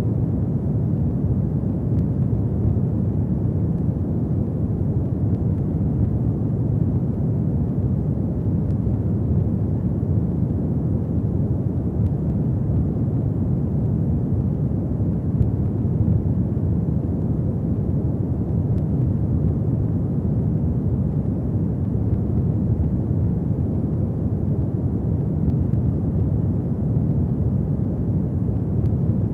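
Fireplace fire burning with a steady low rumble and faint occasional crackles.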